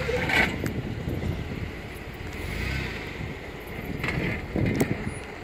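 Jeep engine running at low speed on the rock trail, a steady low rumble, with wind buffeting the microphone.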